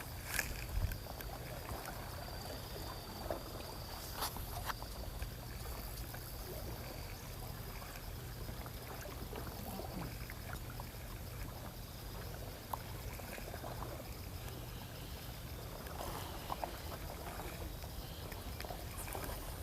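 Seawater lapping and trickling at the shoreline over a steady low rumble, with a few faint clicks.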